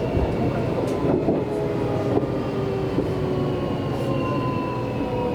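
Seibu Railway electric train running, heard from inside the car: a steady rumble of wheels on rail with a motor whine that falls slowly in pitch, and a few sharp clicks.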